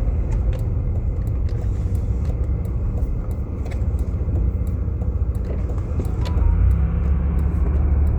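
Jeep Grand Cherokee heard from inside the cabin, driving on snow: a steady low rumble of engine and tyres with scattered small clicks. About six and a half seconds in, the engine note rises and grows louder as the Jeep picks up speed.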